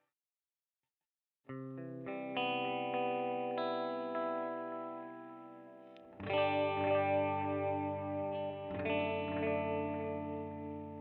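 Electric guitar played through a Saphue digital delay pedal: after about a second and a half of silence, a chord is struck and rings out, with fresh strums about six and nine seconds in, each sustaining and slowly fading under the effect.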